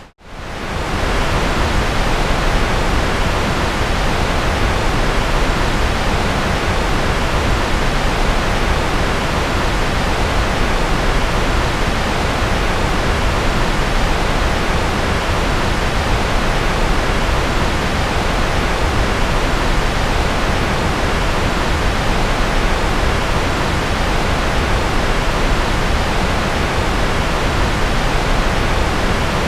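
Generated white noise: a steady, even hiss. It cuts out for a moment at the very start and swells back in within about a second.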